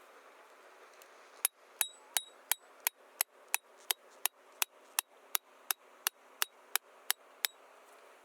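A hammer striking metal in an even run of about eighteen blows, roughly three a second, each with a brief metallic ring. The blows start about a second and a half in and stop near the end.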